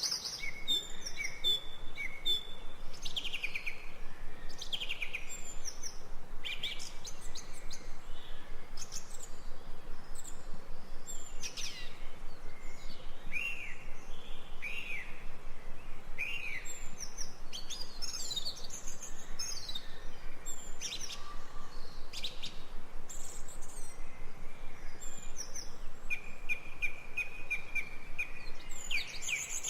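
Songbirds chirping and singing: many short, quick calls overlapping one another, over a faint steady background hiss.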